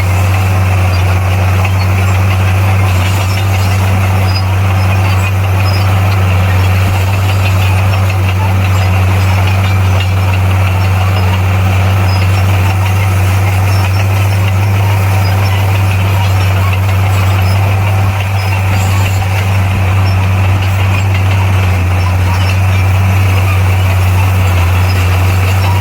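Komatsu D58P bulldozer's diesel engine running steadily, a deep even drone that holds the same pitch throughout.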